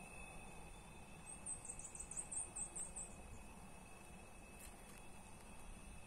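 Quiet outdoor ambience with a steady faint high tone, over which a small bird gives a quick run of about ten short, high notes, each falling in pitch, starting about a second in and lasting about two seconds.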